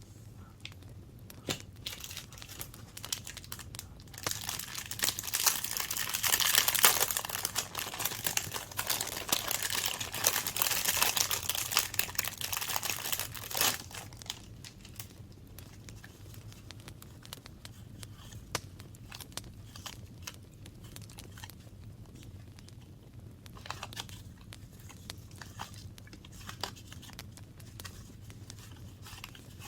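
Paper being handled, crinkled and torn for about ten seconds, then quieter rustles and light taps.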